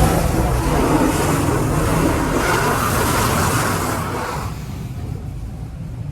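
D&S Quicksilver touch-free car wash spraying water against the car, heard from inside the car: a loud hiss of spray that tails off after about four and a half seconds, over a steady low rumble of the wash machinery.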